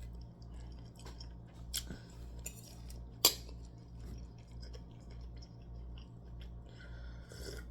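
Scattered small clicks and taps over a steady low electrical hum, with one sharp click about three seconds in.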